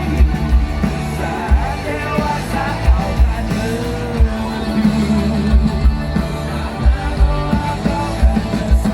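Rock music: a band playing with drums and bass, with a singing voice over it.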